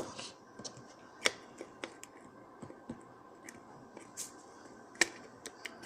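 Scattered light clicks and taps of kitchen handling as chopped garlic goes into the pot, with two sharper knocks, one about a second in and one near the end.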